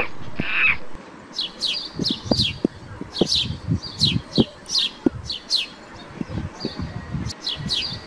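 Bird chirping over and over, quick high notes that each slide downward, a few a second, with soft low knocks underneath. A harsh, raspy animal call cuts off within the first second.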